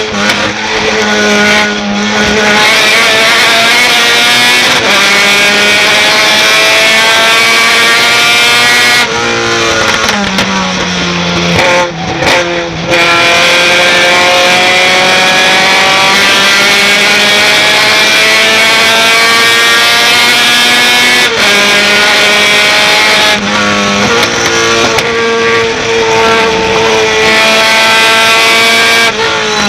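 Racing pickup truck's engine under hard acceleration, its pitch climbing through each gear and dropping sharply at gear changes, several times, with a brief lift off the throttle midway.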